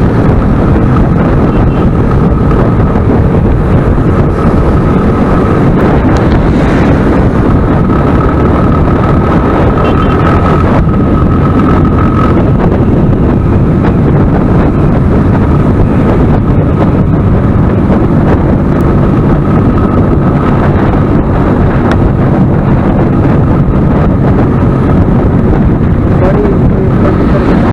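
Motorcycle riding along at steady speed: the engine running under heavy wind rush on the microphone.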